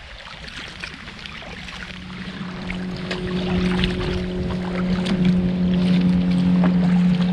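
Motorboat engine hum with a steady pitch, coming in a couple of seconds in and growing steadily louder, over light water noise.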